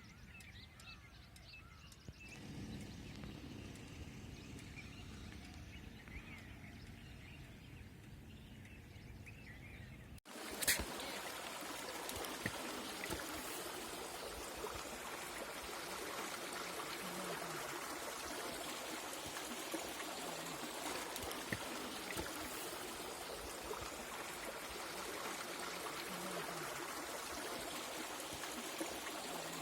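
Faint bird chirps over a low rumble, then, after a sudden cut with a click about ten seconds in, a steady rush of running water from a stream or waterfall.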